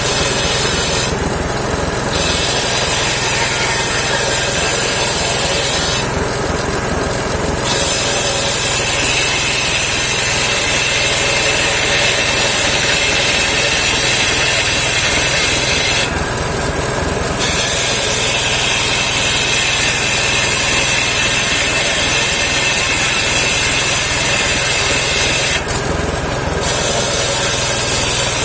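Homemade engine-driven circular sawmill ripping saman (rain tree) wood, a loud continuous high cutting hiss over the steady running of the engine. The high hiss breaks off briefly four times while the engine keeps running.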